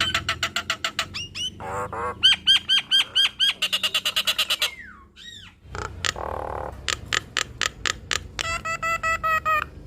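Jalak nias starling singing a varied song: fast runs of sharp clicks, rapid series of repeated whistled notes at about six a second, and a couple of falling slurred whistles around the middle.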